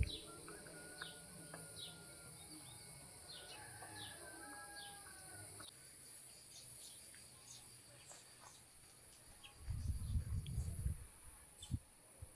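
Outdoor ambience of birds chirping, one repeating a short falling call about twice a second, over a steady high insect buzz. A brief low rumble comes about ten seconds in.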